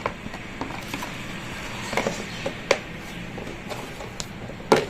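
Carrots being put into a plastic food storage container: scattered light knocks and clicks of carrots against hard plastic, with a sharper click near the end.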